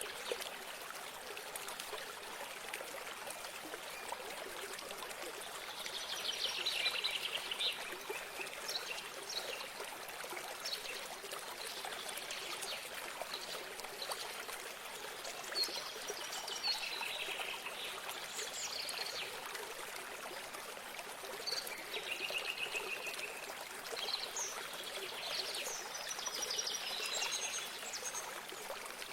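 Running water trickling steadily like a small stream, with songbirds singing over it in several phrases of quick, high, trilled notes a few seconds apart.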